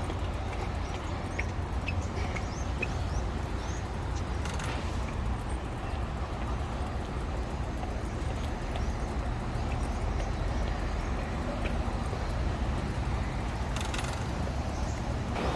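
Steady low rumble of city road traffic, with a few short, high bird-like chirps in the first few seconds.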